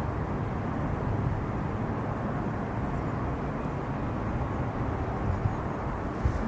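Steady low rumble of a jet airliner's engines, with no rise or fall and no distinct events.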